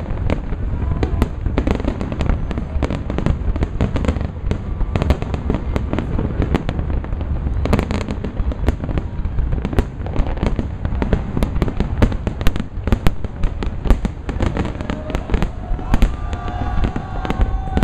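Fireworks display: a rapid, continuous barrage of shell bursts, sharp bangs and crackles over a low rumble. Near the end a few drawn-out tones sound over the bangs.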